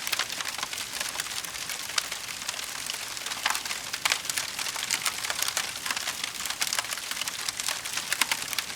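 Wood fire burning in a fireplace, crackling steadily with frequent sharp pops and snaps over a soft hiss.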